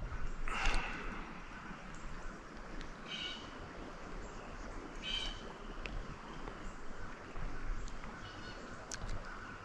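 A bird calling: four or so short, high calls a couple of seconds apart, over a steady outdoor background hiss.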